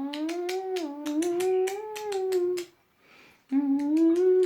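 A woman humming a slow tune without words, in two long phrases with a short break a little after the middle.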